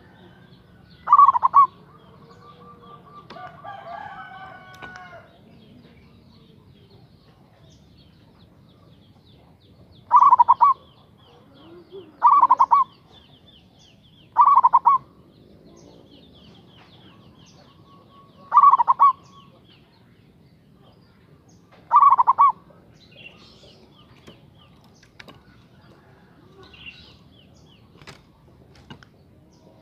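Local Javanese zebra dove (perkutut) cooing: six loud, short, rolling coo phrases spaced several seconds apart, with faint chirps of small birds behind.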